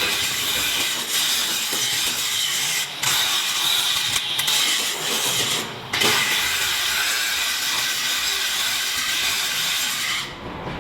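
Loud steady hissing noise from workshop equipment, which breaks off briefly three times and stops shortly before the end.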